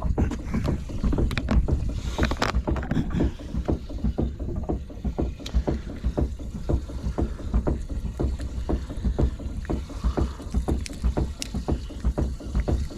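Small wind-driven waves slapping against a boat hull in rapid, irregular knocks, with wind rumbling on the microphone.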